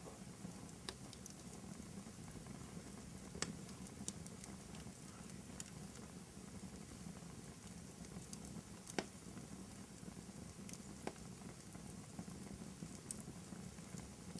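Wood fire burning in a fireplace: a low steady rustle with scattered sharp crackles and pops, the loudest about three and a half seconds in and again about nine seconds in.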